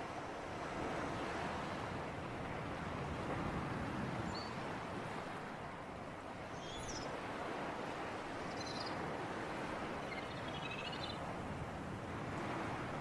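Sea surf and breeze: a steady wash of waves and wind that swells and eases slowly, with a few faint high chirps scattered through it.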